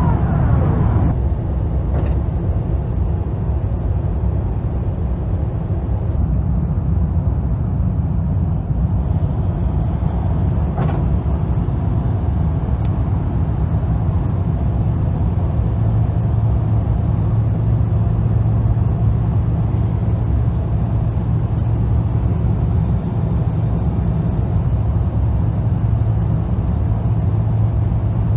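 Steady low rumble inside the cabin of an Airbus A350 airliner. In the first second a high engine whine falls in pitch and fades, and a steady low hum joins the rumble about halfway through.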